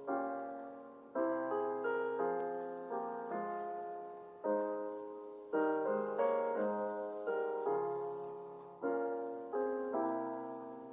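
Slow, gentle solo piano music, single notes and chords struck and left to ring and fade.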